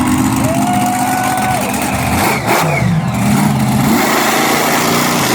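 Monster truck engine running loud and revving, its pitch dropping and then climbing sharply about two and a half seconds in.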